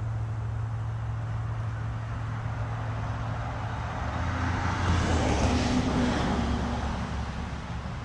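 A steady low hum with a passing vehicle that swells, is loudest about five to six seconds in, then fades.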